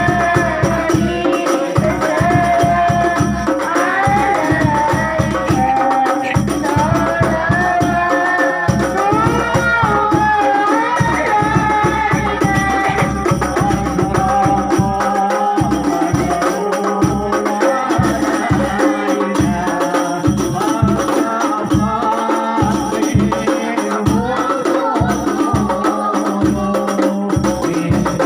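Sholawat, Arabic devotional praise of the Prophet, sung with hand-struck frame drums and jingles keeping a steady, dense rhythm under the melody.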